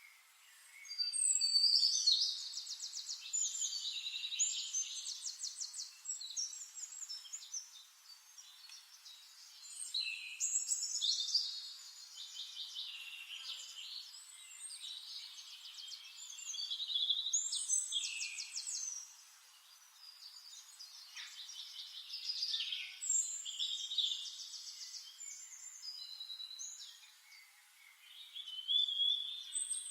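Songbird singing: long, varied phrases of rapid trills and whistles, four or five phrases with short pauses between them.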